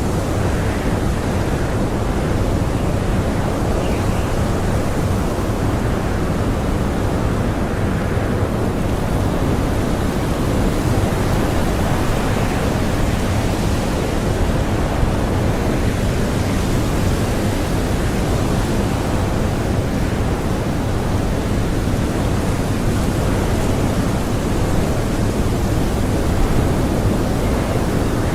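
Strong blizzard wind blowing steadily, a dense even rush with only slight swells in strength.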